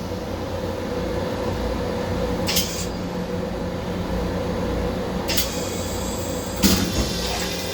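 Steady hum of an M7 railcar restroom's ventilation fan over the low rumble of the moving train, broken three times by short hisses, the last with a thump.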